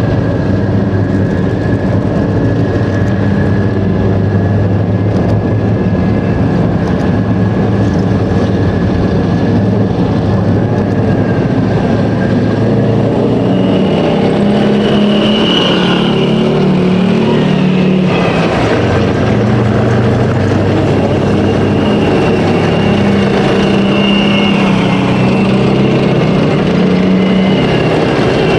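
Type 74 main battle tanks driving past in column, their air-cooled V10 diesel engines running steadily with a thin high whine over the engine note. The whine moves higher about halfway through as the vehicles pass.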